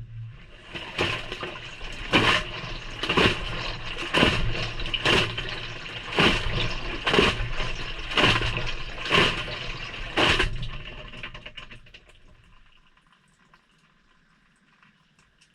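Maytag front-load washer tumbling a delicate wash, heard from inside the drum: wet laundry and water slosh and drop about once a second over a low motor hum, about ten times. The drum then slows and stops, leaving a few seconds of near silence.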